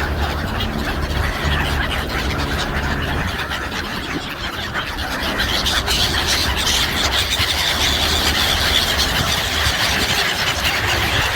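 A large flock of sea birds calling all at once, a dense shrill chatter that grows louder about halfway through, over a steady low rumble.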